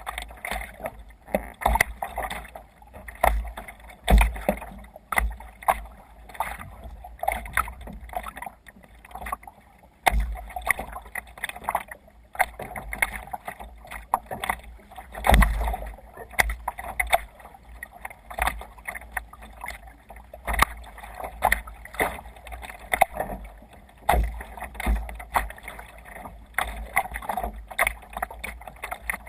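Water splashing and slapping against a sea kayak under way on open water, in irregular surges about once a second, with low thumps underneath.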